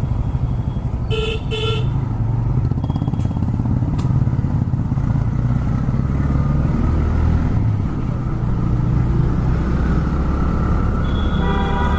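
TVS Raider 125's single-cylinder engine and exhaust running steadily while riding in traffic, with two short vehicle-horn honks about a second in.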